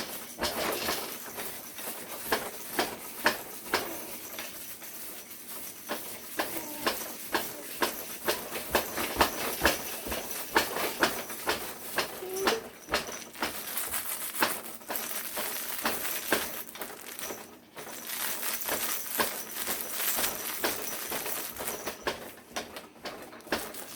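Baby's frog jumper bouncer clacking and knocking as it is bounced: irregular sharp knocks, two or three a second.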